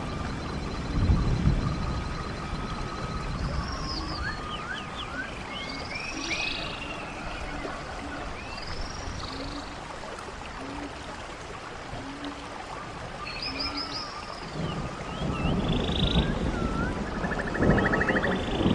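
Running stream with several birds singing short whistled, sweeping phrases. A short low call repeats about once a second through the middle, and the rushing water noise swells near the end.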